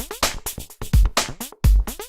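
Electronic music with a drum-machine beat: deep kick drum hits in an uneven, broken pattern, with short crisp percussion hits and synth tones between them.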